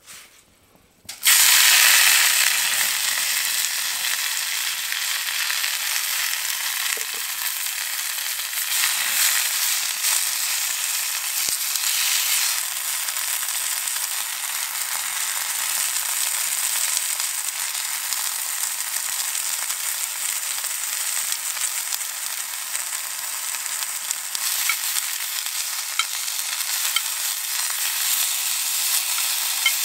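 Stinging nettle leaves hitting a steel frying pan of hot fat over a wood fire, starting to sizzle suddenly and loudly about a second in. They then fry with a steady hiss as they cook down.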